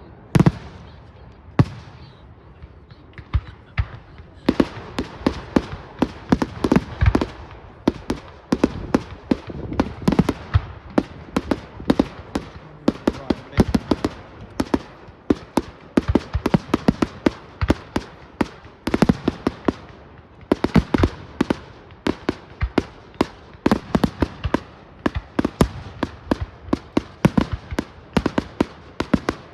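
Fireworks display: a rapid, continuous string of sharp bangs and crackles, several a second, with a short lull about two seconds in before it picks up again.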